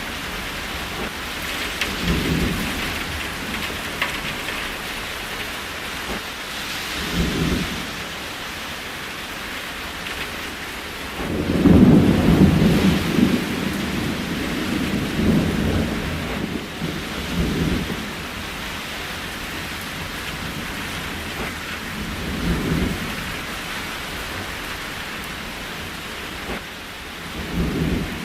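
Steady rain with repeated low rumbles of thunder, the loudest and longest starting about eleven seconds in and rolling for several seconds.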